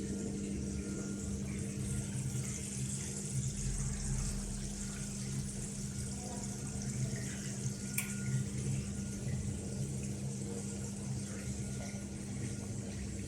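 Gorenje WA72145RD washing machine running with water flowing inside it over a steady hum, and a single click about eight seconds in.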